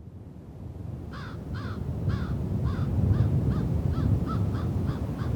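A bird giving a long run of short repeated calls, starting about a second in at about two a second and quickening slightly, over a heavy low rumble of wind on the microphone that fades in at the start.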